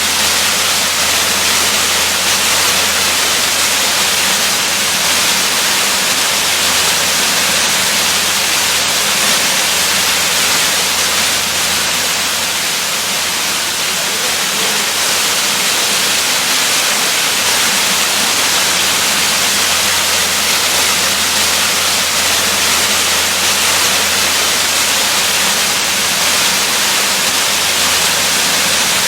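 Waterfall: falling water making a steady, unbroken rushing hiss, strongest in the upper range, with a low rumble beneath.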